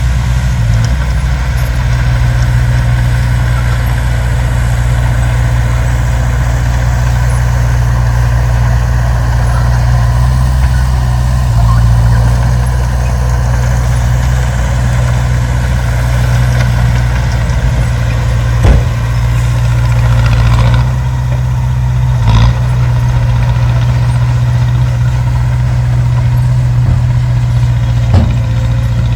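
Diesel engine of heavy earthmoving machinery running steadily with a deep, even hum, with three short sharp knocks in the second half.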